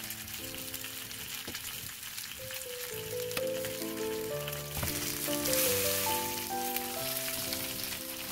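Flour-coated, meat-stuffed bell peppers sizzling in oil in a frying pan: a steady hiss of frying. Light background music with a slow stepping melody plays over it.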